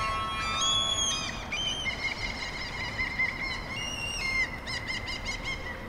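Small birds chirping, a string of short rising-and-falling calls with a quick run of chirps near the end, over a steady low background rumble.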